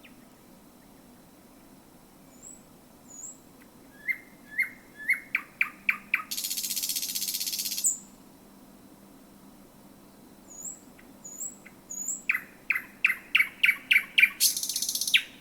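Male thrush nightingale singing: after a pause, a run of sharp repeated notes that speed up and end in a loud, dry rattle, then a few thin high notes and a second, louder speeding run that again breaks into a rattle near the end.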